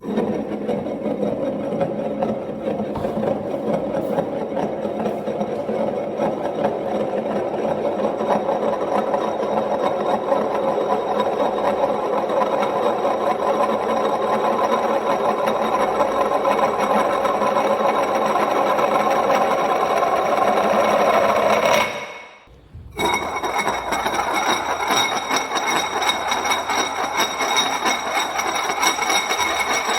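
A large ceramic bowl spinning and wobbling on its rim on a wooden surface, a continuous mellow rolling rattle. After a short break about two-thirds of the way through, it spins on a ceramic tile floor, the rattle now brighter with steady high ringing tones.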